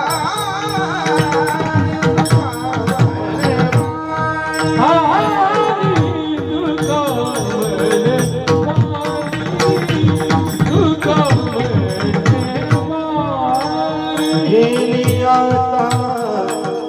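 Varkari bhajan music: a sung line with long, bending melismatic notes over steady held chords, with a pakhavaj drum and small hand cymbals keeping an even beat.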